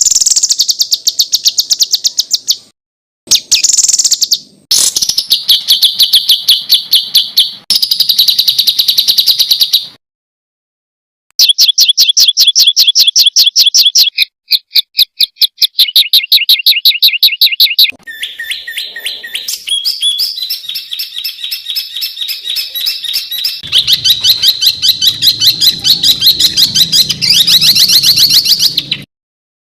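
Songbirds singing rapid, chattering runs of fast repeated high notes ('tembakan' phrases), laid out as a string of separate song clips with short silent gaps between them.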